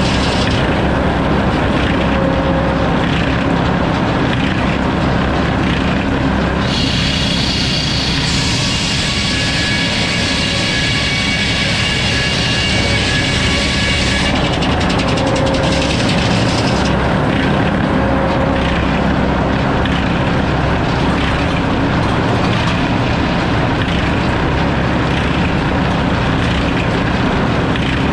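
A sawmill running steadily, its motor and blade making a loud, continuous mechanical din. For about seven seconds in the middle a higher whine comes in over it, then drops away.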